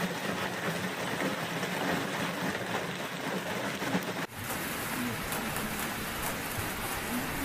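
A heavy storm downpour striking hard surfaces in a steady, dense patter. It breaks off for an instant about four seconds in, then carries on.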